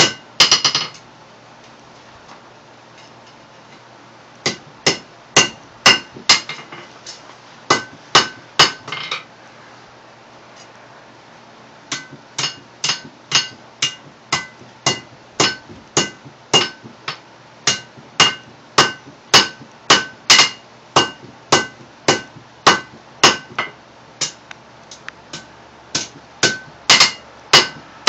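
Blacksmith's hand hammer striking hot steel on an anvil while forging a drive hook, the anvil ringing after each blow. The blows come in runs of about two a second, broken by two short pauses.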